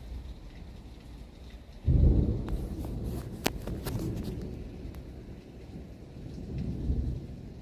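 Thunder rumbling low, with a sudden loud clap about two seconds in that rolls away slowly and swells again near the end, along with a few sharp ticks.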